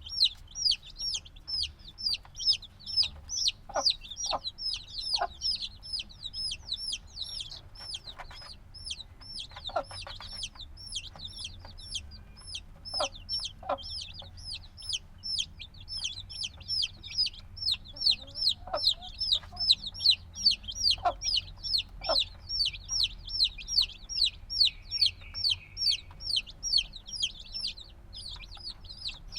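A brood of chicks a few days old peeping loudly and without a break, a rapid run of high, downward-sliding cheeps at about three a second, with a few short lower calls mixed in. Such constant loud peeping is typical of chicks that still need warmth from a brooding hen.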